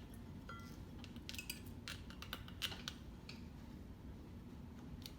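Light metallic clinks and clicks from tools and small fittings being handled, about a dozen in the first three seconds and one more near the end, over a faint steady hum.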